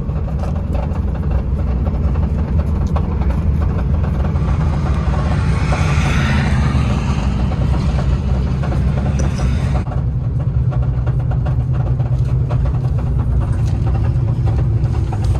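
Turbocharged Honda K-series drag car driving slowly, its engine and drivetrain droning steadily, with a hiss that swells and fades midway. The transmission is damaged: fourth gear has just failed.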